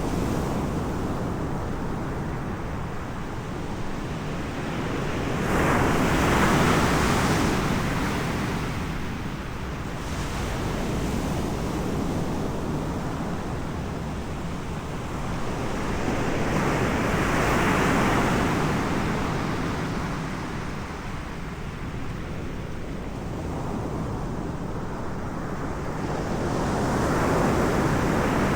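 Ocean waves breaking on the shore: three slow swells of surf about ten seconds apart over a steady wash, with wind on the microphone.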